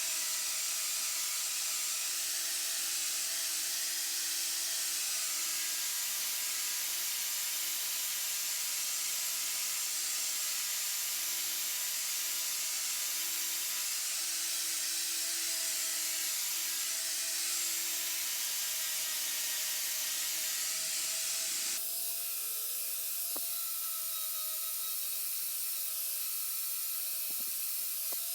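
Steady hiss of a power tool at work, with faint steady whining tones under it; the sound changes abruptly about two-thirds of the way through and then carries on.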